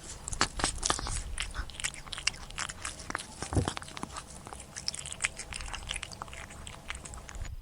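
An animal chewing and crunching food: a quick, irregular run of crisp crunches.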